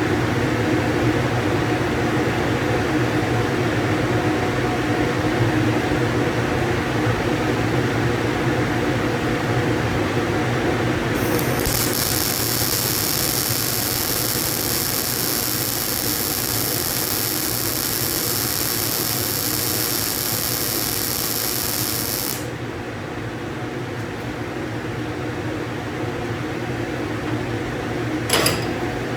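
Electric power drill running steadily, with a high-pitched whine added from about a third of the way in until about three-quarters through, and a sharp click near the end.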